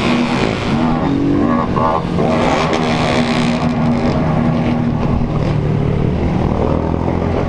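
Small motorcycle engines running steadily while riding in a group, their pitch shifting a little as the throttle changes.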